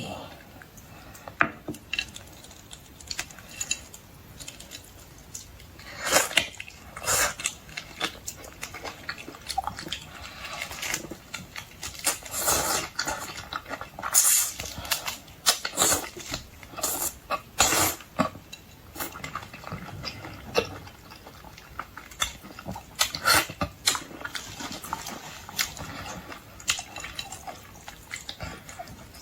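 Eating sounds from a plate of boiled seafood: irregular wet crackles and clicks as shells of shrimp and lobster are handled and peeled, with chewing and the clink of dishes. They come in louder clusters several times.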